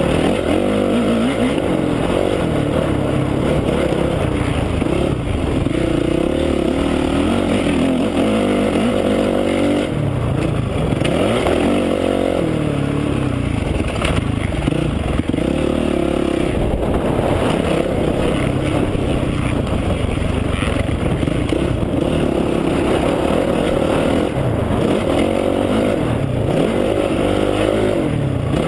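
2008 Honda CRF450R's single-cylinder four-stroke engine being ridden hard, revving up and dropping away again and again as the throttle is opened and shut.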